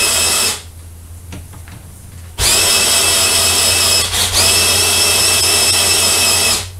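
Electric drill running with a high, steady whine in bursts. It cuts off about half a second in, starts again after a pause of about two seconds, and runs for about four seconds with a brief dip partway through before stopping near the end. A steady low hum runs underneath.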